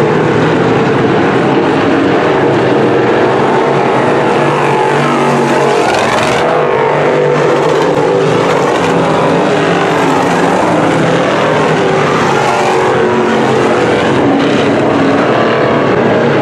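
A field of crate-engine sportsman modified dirt cars racing, several V8 engines running hard together at a loud, steady level, with pitches rising and falling as cars pass by.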